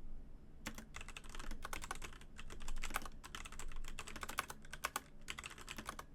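Typing on a Razer BlackWidow Elite mechanical keyboard with Razer Orange tactile switches: a brief lull, then quick, irregular keystrokes clattering on.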